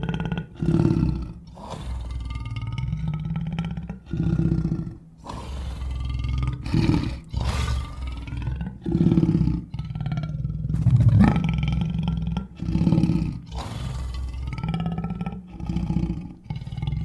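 A lion roaring and growling, a string of short roars of a second or two each with brief breaks between them.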